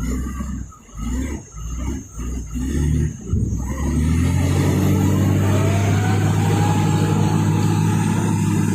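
Nissan TZA 520 dump truck's diesel engine, running unevenly in choppy surges for the first few seconds, then settling about four seconds in into a steady low drone with a faint slowly rising whine.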